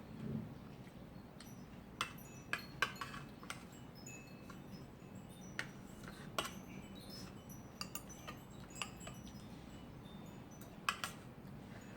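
About a dozen light metallic clinks scattered irregularly, some with a brief high ringing tone, over a steady low background.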